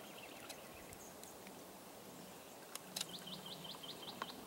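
A small bird gives a quick run of about eight short, high chirps about three seconds in, over faint outdoor background noise, with a few light clicks.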